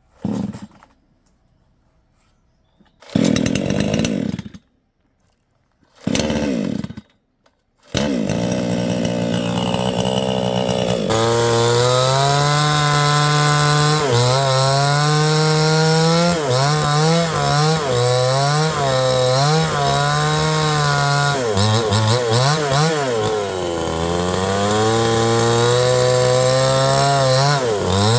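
Two-stroke chainsaw firing in two short bursts that die away. It then runs continuously from about 8 seconds in, its engine pitch rising and dipping repeatedly as it is throttled and loaded.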